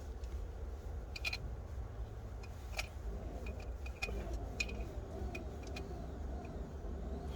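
Scattered light metallic clicks and taps from hand tools and a compression gauge being handled and fitted at the engine, over a steady low rumble.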